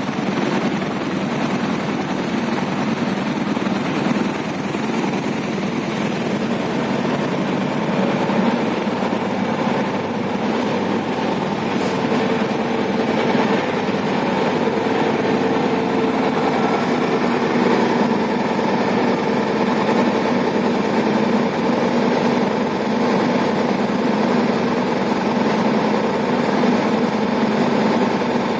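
Steady noise of engines running, with faint hums that shift slowly in pitch and no distinct bangs.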